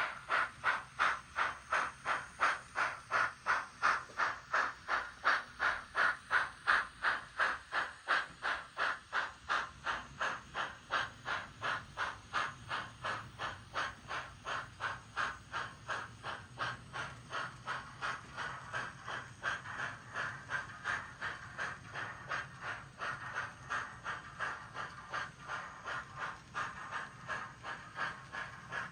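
Steam exhaust chuffs from the DCC sound decoder of a Kato GS4 model steam locomotive, played through its small speaker as it runs. Steady, even beats at about two to three a second, fading slightly toward the end.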